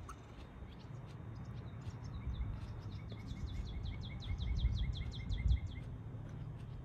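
A songbird repeating a quick, even series of high, down-sweeping notes, about five a second for some three seconds, over a low background rumble.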